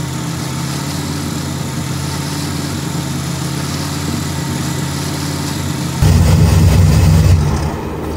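Supercharged V8 of a Cadillac CTS-V drag car idling steadily, briefly louder about six seconds in.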